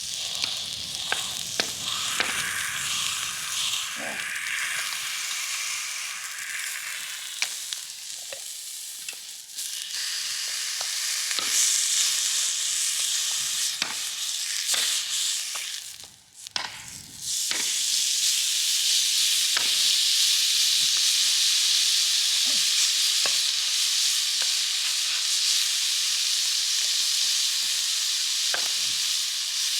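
Steak frying in a hot pan: a steady sizzle with scattered small pops and spits. The sizzle breaks off briefly about halfway, then comes back louder and more even.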